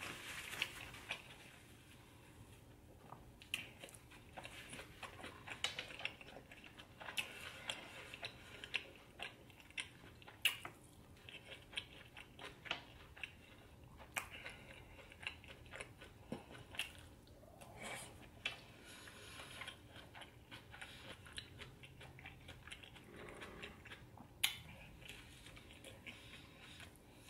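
Close-miked chewing and wet mouth sounds of a person eating, made up of many irregular short clicks and smacks.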